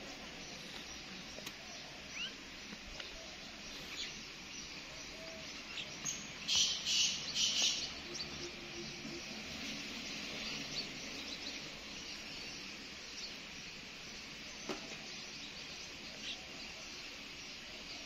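Birds calling outdoors: scattered short chirps over a steady high hiss, with four loud calls in quick succession about six to eight seconds in.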